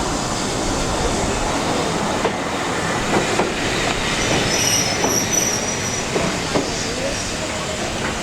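Heritage railway train running on the track, with a steady rumble, a few sharp knocks of the wheels, and a brief high wheel squeal about halfway through.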